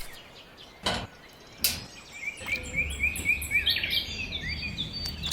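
Small birds chirping in quick runs of short repeated notes, preceded by two sharp knocks about a second apart.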